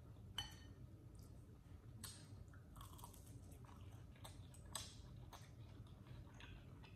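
Faint, close-miked chewing of a mouthful of chili cheese fries, with irregular soft mouth smacks and small clicks.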